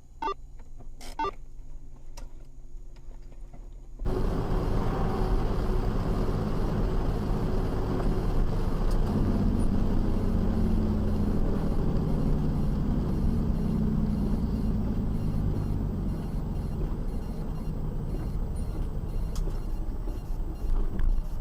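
Steady car engine and road-noise rumble picked up by a dash cam. It starts suddenly about four seconds in, after a quieter stretch with a few faint clicks.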